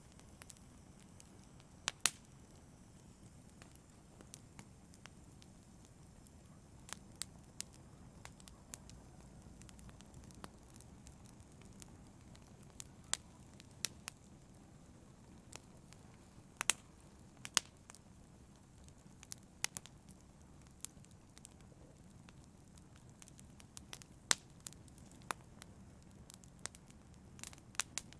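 Wood fire crackling: irregular sharp pops and snaps, a few each second, some much louder than others, over a soft steady low rush of the burning.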